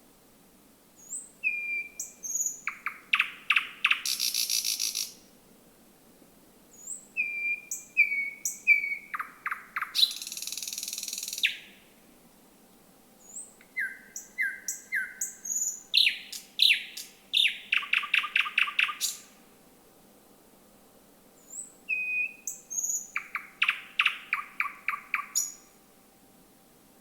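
Thrush nightingale singing in four phrases with short pauses between them. Each phrase opens with a few short whistled notes and high chips, then breaks into fast rattling series of loud clicking notes; the second phrase ends in a buzzy trill.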